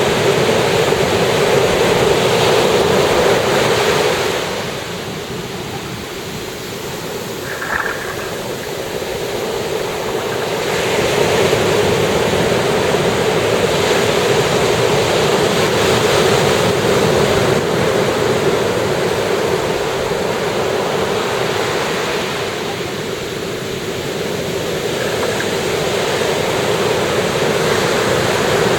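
Ocean surf breaking and washing ashore, swelling and easing in slow waves. There is a brief high tone about eight seconds in.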